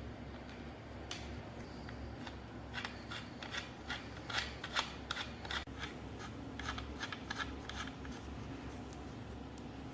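Hand-tool work on a rusted metal part: a run of short, sharp clicks and scrapes, densest in the middle, over a low steady hum.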